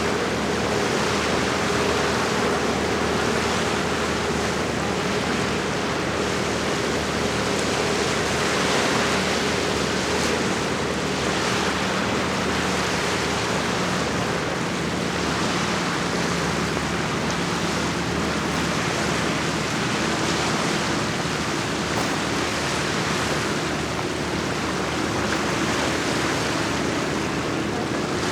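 Lake water washing and lapping in a steady rush with gentle swells, under a faint steady low hum that shifts slightly in pitch about two-thirds of the way through.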